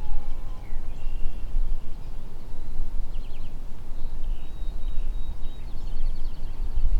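A low rumble of wind on the microphone, with small songbirds chirping faintly above it and a short rapid trill near the end.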